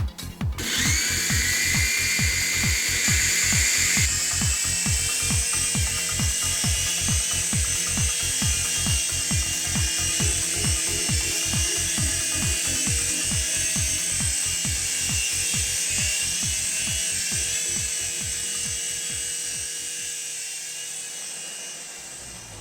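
Small coaxial RC toy helicopter's electric motors and rotors running with a steady high whine, the pitch shifting about four seconds in, over background music with a steady beat.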